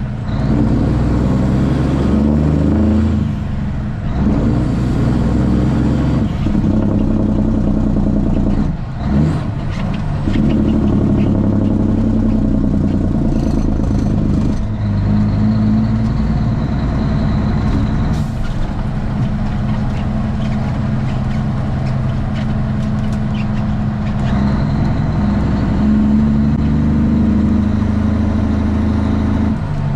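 Straight-piped Cummins ISX inline-six diesel of a Kenworth T800 truck running under way. The engine note is loud and holds steady stretches, dipping briefly a few times as its pitch steps to a new level.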